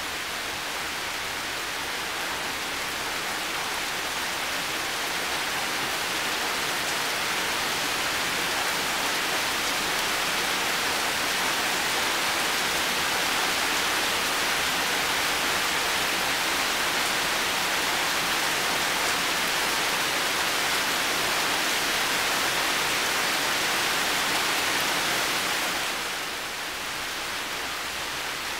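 Heavy rain falling steadily as a dense, even hiss. It swells slowly for the first several seconds and eases a little about 26 seconds in.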